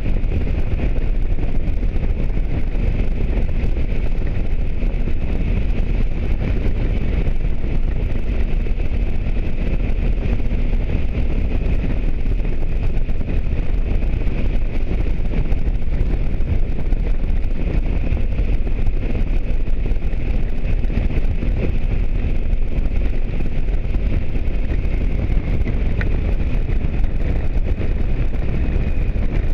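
Motorcycle on the move: steady wind rush and road noise on the microphone, with the engine's even hum underneath.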